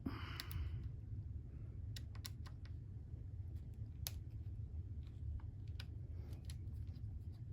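Torx T8 screwdriver turning out a small screw from a white iMac's case: a light scrape at the start, then scattered soft clicks of the driver tip and hand regripping, a few every second or so, over a low steady hum.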